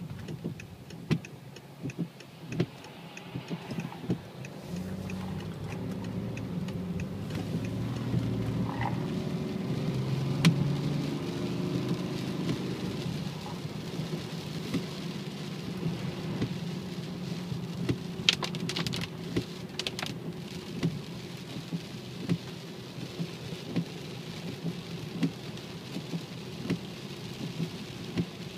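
BMW 535d with its 3.0-litre straight-six diesel, driving: a steady low drone whose pitch rises and shifts about ten seconds in, over an even hiss with scattered ticks and clicks. The owner is chasing a whining, howling noise that he links to the gearbox.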